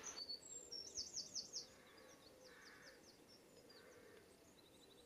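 Faint birdsong: a quick run of short, high, sweeping notes in the first second and a half, then scattered fainter notes and a brief trill.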